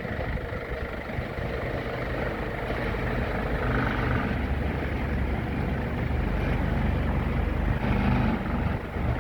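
A vehicle engine running steadily with a low rumble, as during the loading of a machine for shipment.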